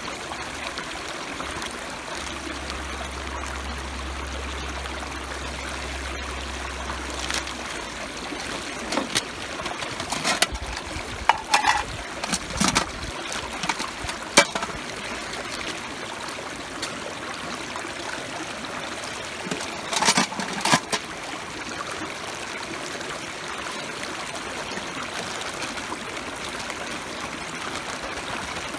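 A steady rushing noise like flowing water, with a few scattered clicks and knocks in the middle.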